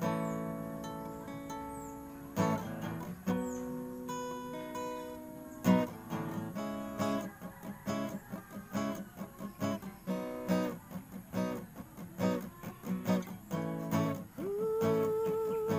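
Acoustic guitar playing a song's instrumental intro: slow, ringing strummed chords, then a quicker rhythmic strumming pattern from about six seconds in. Near the end a long held note that wavers in pitch comes in over the guitar.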